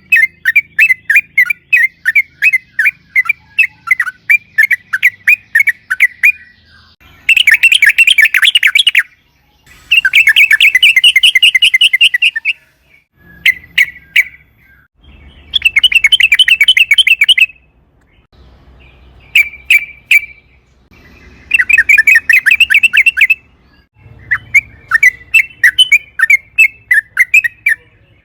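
Yellow-vented bulbul (trucukan) singing: a run of quick chattering notes, broken four times by loud, fast rolls about two seconds long (the long 'ropel' that the bird is kept for).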